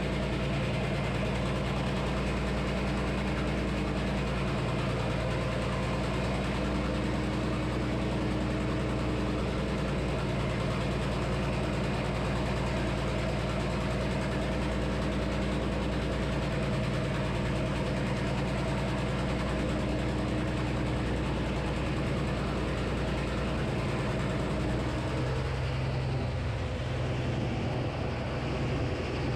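Frick sawmill running with a 48-inch circular blade: a steady engine drone from the mill's power unit. The engine note shifts lower about four-fifths of the way through.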